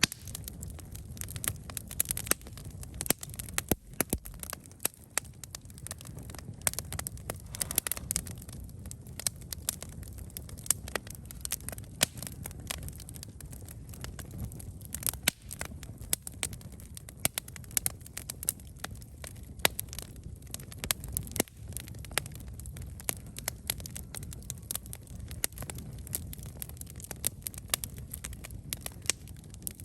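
Wood campfire burning, with frequent irregular sharp crackles and pops over a low steady rumble of the flames.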